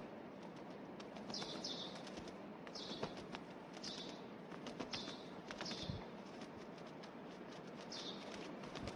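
A bird chirping: short high chirps repeat about once a second, sometimes in quick pairs, over a faint steady background hiss with scattered light clicks.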